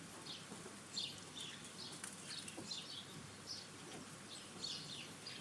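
Small garden birds calling: many short, high chirps and twitters overlapping, several a second.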